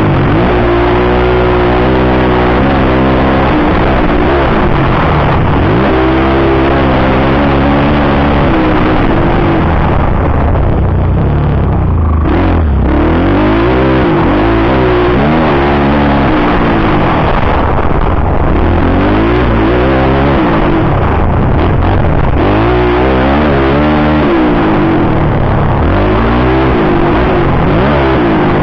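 Motocross bike engine revving hard and easing off again and again, its pitch climbing and dropping every second or two as it is ridden.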